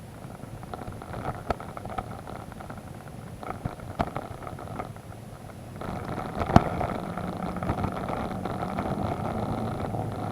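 BMW adventure motorcycle running while ridden over a muddy dirt road, with scattered knocks and clicks from the rough surface. About six seconds in the engine gets louder, and a sharp knock comes just after.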